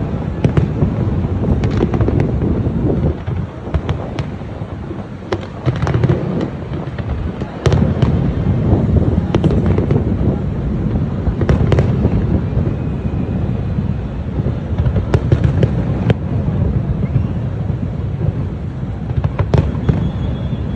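Fireworks display: a continuous low rumble of bursting shells with many sharp cracks and pops.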